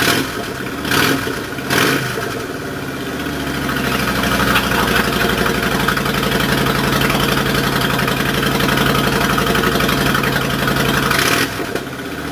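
Suzuki Intruder VN1600's V-twin engine running through Vance and Hines Big Shots aftermarket exhaust pipes. It is blipped twice early on, then runs at a steady idle, with the note changing near the end.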